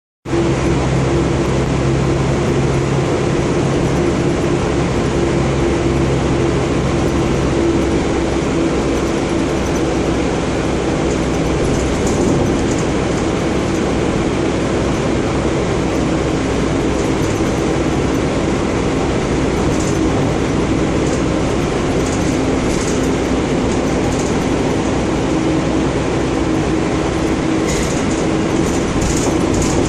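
Engine of a 2014 Gillig Low Floor transit bus running steadily, a constant hum with a lower tone that fades out about eight seconds in.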